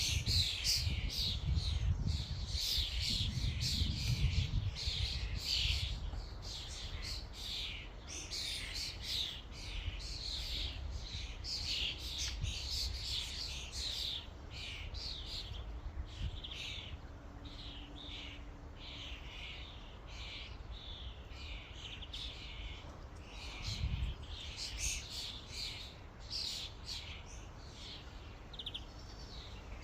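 A flock of common starlings calling over one another with dense, continuous chattering, whistles and squawks. Low rumbles come through in the first few seconds and again about 24 seconds in.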